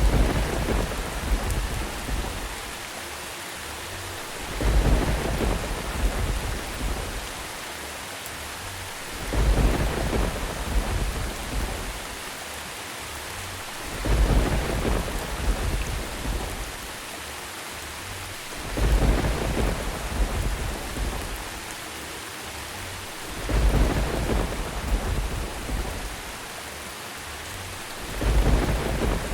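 Steady rain hiss with a deep thunder rumble that swells suddenly and fades over a few seconds, coming back at even spacing about every four and a half seconds, seven times in all, like a looped sleep-sound track.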